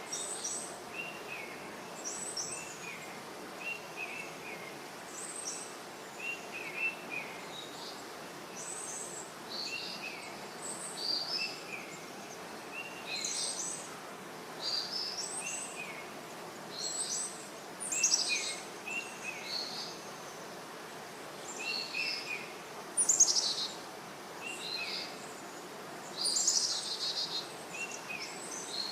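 Songbirds chirping: short, high calls in quick clusters of two or three notes, repeating every second or two over a steady background hiss, with a few louder, sharper calls toward the end.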